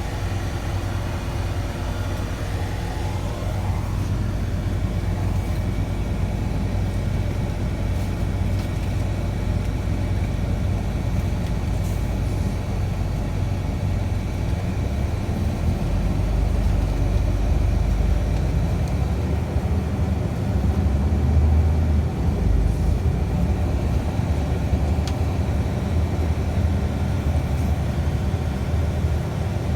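Scania city bus under way, heard from inside the passenger cabin: a steady low engine and road rumble. Over the first few seconds a whine rises in pitch as the bus accelerates.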